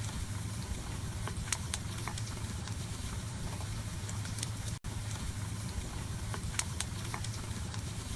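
Wood burning in a wood stove: scattered sharp crackles and pops over a steady low rumble, with a brief dropout about halfway through.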